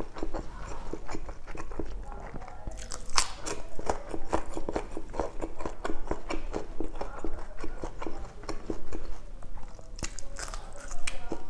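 Close-up chewing and mouth sounds of a person eating pork belly adobo: a dense, irregular run of small clicks and smacks.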